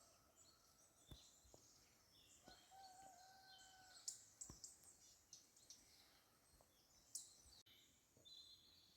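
Faint chirps and calls of small birds, scattered and high-pitched, with one short held call about three seconds in.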